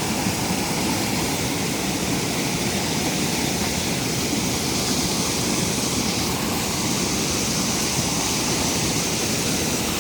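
Steady rushing roar of a rain-swollen waterfall, mixed with heavy rain falling.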